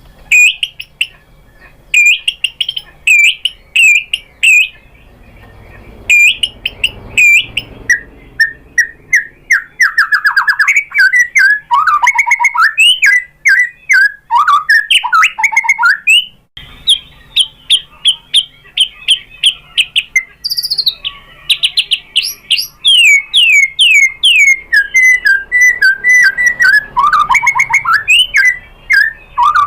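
White-rumped shama (murai batu) singing: fast strings of loud whistled notes and sweeping up-and-down glides, switching abruptly to a new passage a little past halfway.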